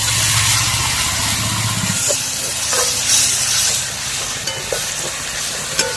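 Chopped tomatoes and green chillies sizzling in hot coconut oil with sautéed onions, with a few light clicks of a spoon stirring the pan.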